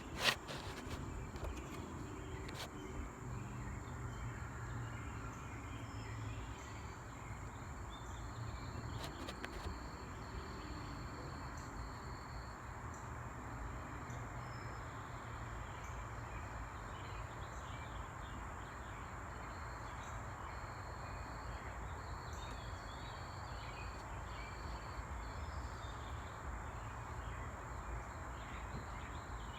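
Steady outdoor background of insects droning, with a continuous high tone and scattered faint short chirps.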